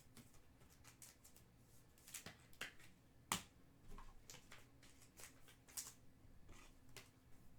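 Faint, scattered clicks and brief rustles of trading cards being handled by hand, with one sharper click a little after three seconds in.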